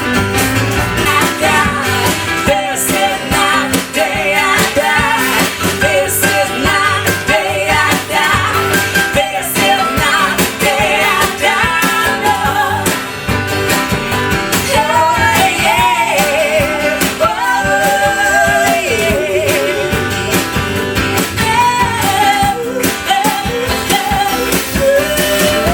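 Live band music: guitar accompaniment with a sung melody line over it.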